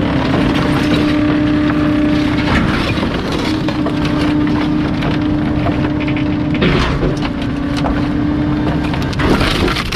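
Garbage truck's hydraulic compactor crushing bulky trash: a steady hum from the hydraulics that breaks off briefly a couple of times, over crunching with a few louder cracks.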